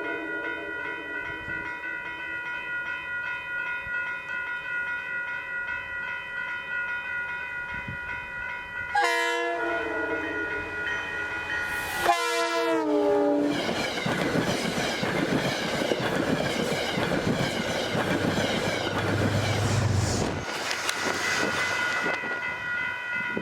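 Metro-North passenger train sounding a long multi-note horn as it approaches, the chord dropping in pitch as it passes, then the train rushing by with wheels and cars clattering over the rails.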